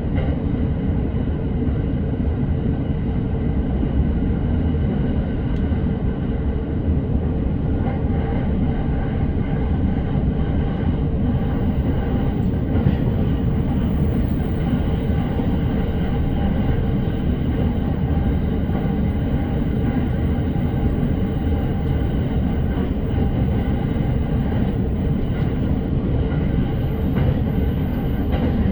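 Running noise of a JR commuter train heard from inside the carriage: a steady rumble of wheels on rail at speed.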